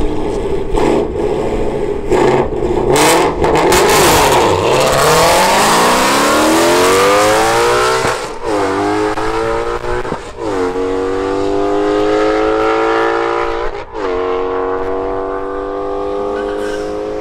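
Ford Mustang GT350's V8 launching down a drag strip at full throttle, its note climbing steadily and then dropping and climbing again at three upshifts in the second half.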